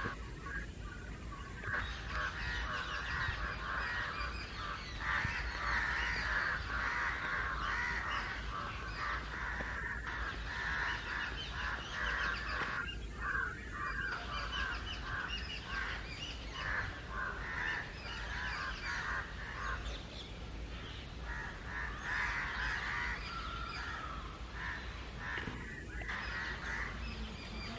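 A flock of house crows and jungle crows cawing nonstop, many harsh calls overlapping with barely a gap: an agitated, mobbing chorus raised against something. The calling thins briefly about halfway through and again near the end.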